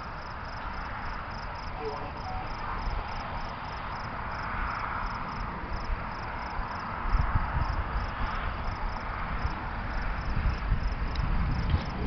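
Crickets chirping steadily over a background hiss. From about seven seconds in, low gusty rumbling joins them.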